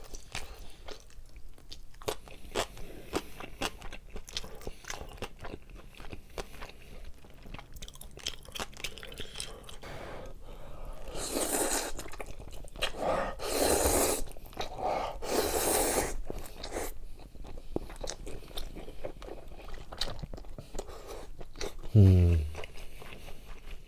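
Close-miked eating: a steady run of crunching and chewing clicks, with three louder, longer bursts of noise near the middle. A short hummed "mm" comes near the end.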